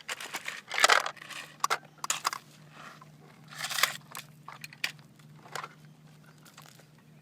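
Gravel crunching and rattling in irregular bursts as it is scooped and handled, loudest about a second in and again near four seconds, over a faint steady low hum.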